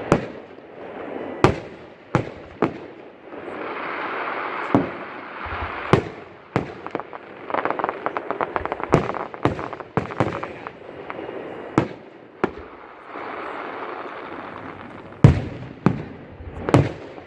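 Fireworks display: a string of sharp shell bursts at irregular intervals, with stretches of crackling hiss between them and a quick rattle of crackling pops about halfway through. The loudest bursts come near the end.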